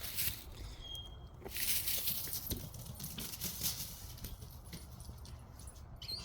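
A pet dog close by, breathing and moving about in short hazy puffs, over a steady low rumble. A short high-pitched chirp comes about a second in.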